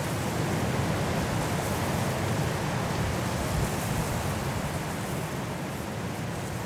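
Strong wind blowing through trees in a snowstorm, a steady rushing noise that swells slightly and eases a little near the end.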